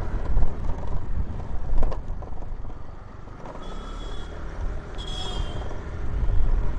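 Wind and road rumble on a phone microphone while riding an Aprilia SR150 scooter, with two short high chirps near the middle.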